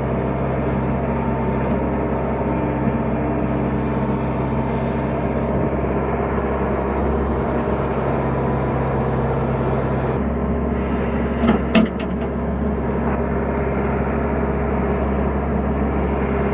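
A tractor engine running steadily, its note shifting about ten seconds in, with two or three sharp knocks shortly after.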